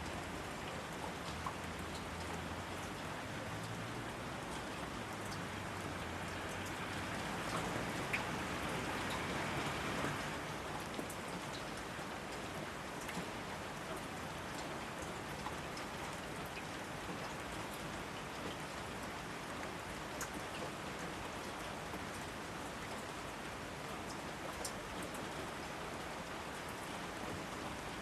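Steady rain falling, with individual drops ticking close by; the rain swells briefly about a third of the way through.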